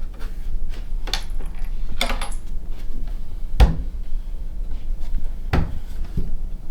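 A few sharp knocks and clicks over a low steady hum; the loudest is a thump about three and a half seconds in.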